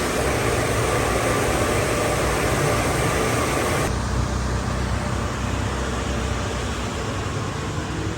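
Automatic car wash working over a car: a loud steady hiss of spraying water with a low rumble under it. About four seconds in the hiss cuts off sharply, leaving the low rumble running.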